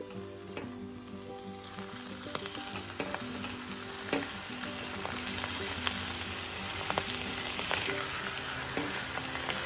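Mushroom and fish fry sizzling in a nonstick pot as it is stirred, with scrapes and light knocks of a silicone spatula against the pan. The sizzle grows louder about two seconds in.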